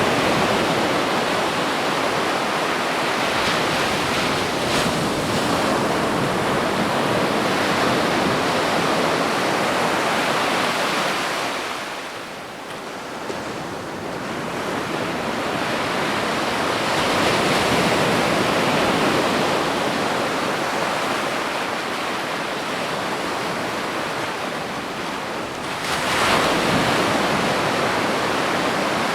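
Ocean surf breaking on a beach: a continuous rushing wash that eases off about twelve seconds in, builds again, and surges with a fresh wave near the end.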